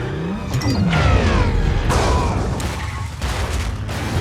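Action-film car-chase soundtrack: a music score mixed with vehicle engine sounds gliding up and down in pitch, and several crashing metal impacts about half a second, two seconds and three seconds in.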